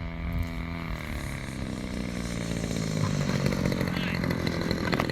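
Single-cylinder two-stroke gasoline engine (DLE-55) of a quarter-scale RC airplane running throttled back for landing. Its pitch drops about a second in and it grows louder as the plane comes in. There is a sharp click near the end.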